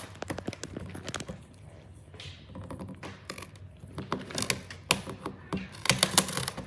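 A rapid, irregular run of light taps and clicks, thickest about four seconds in and again near six seconds.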